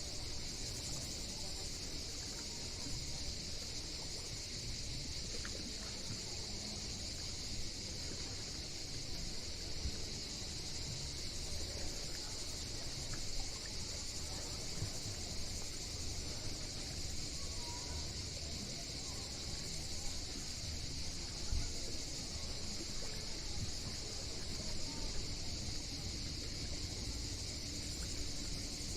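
A steady insect chorus, typical of cicadas in the Greek summer, sings without a break over a low rumble.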